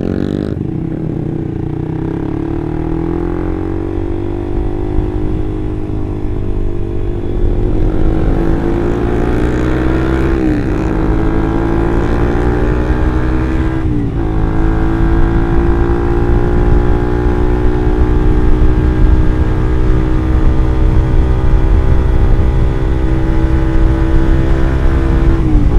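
Suzuki GSX-R150's single-cylinder engine breathing through an aftermarket R9 Mugello exhaust while riding. It pulls up through the revs with sharp drops in pitch at gear changes about ten and fourteen seconds in, then holds a steady cruise, with another shift near the end.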